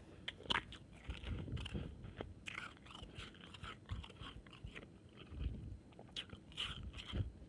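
Close-up mouth sounds of chewing and crunching shaved ice: a string of short, irregular crunches.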